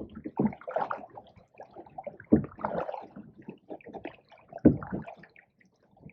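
Canoe paddling on a pond: paddle strokes splashing and dripping water, with three low thuds about two and a half seconds apart.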